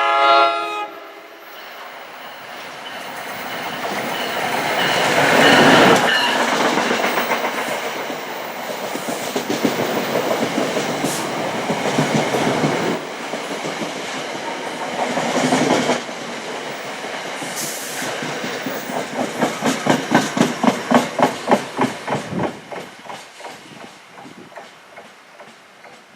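Electric passenger train passing at speed: a short horn blast cut off about a second in, then the rush of the train building and running past, with a fast clickety-clack of wheels over rail joints near the end before it fades away.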